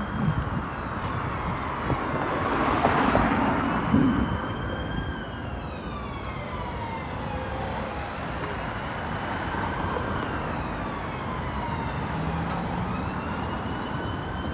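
An emergency vehicle's siren wailing in a slow rise and fall, over the noise of road traffic, with a louder rush of a passing vehicle about three seconds in.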